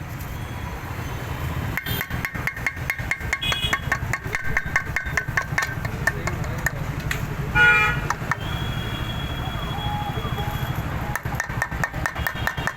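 Steady street traffic noise with a fast, even run of ticks, and a vehicle horn honking briefly about seven and a half seconds in.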